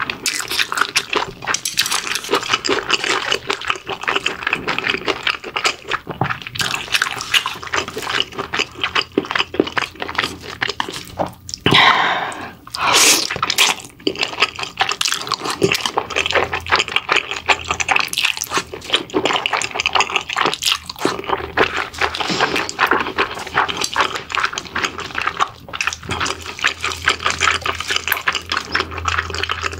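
Close-miked wet chewing and lip smacking of someone eating mala-sauced pig's trotters: many small, sticky, irregular clicks, with a louder, longer stretch about twelve seconds in.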